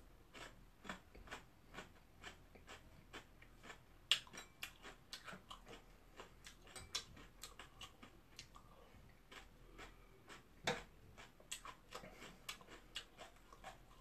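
Close-up eating sounds: quiet chewing with many small crisp clicks, a few a second, from spoonfuls taken from a bowl of milk. A sharper click about four seconds in and another near eleven seconds.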